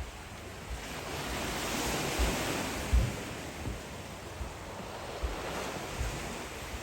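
Ocean surf washing up on the beach, swelling about two seconds in and easing off, with wind buffeting the microphone in low thumps.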